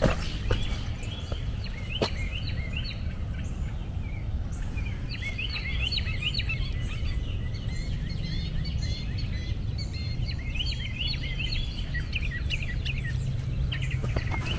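Birds chirping, many short high chirps in quick clusters, over a steady low rumble. A single sharp click about two seconds in.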